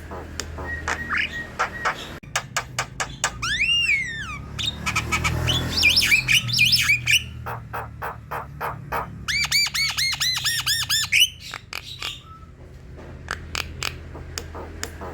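Javan myna in full song: a rapid mix of sharp clicks, harsh chatter and whistled notes, with a whistle swooping up and down about four seconds in and a fast run of repeated whistled notes around nine to eleven seconds in.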